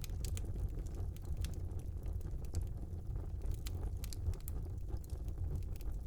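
Fire burning in a small fireplace: a low steady rumble with scattered, irregular sharp crackles.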